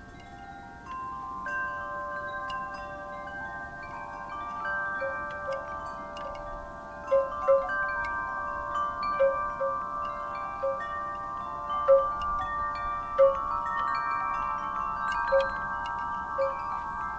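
Wind chimes stirred by a breeze, ringing with many overlapping tones that sustain and blend as the chimes are struck at irregular moments. The strikes grow louder and more frequent about seven seconds in.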